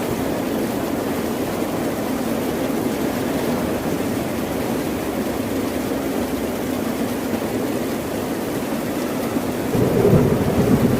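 Ocean surf: a steady wash of waves, with one wave swelling louder and breaking near the end.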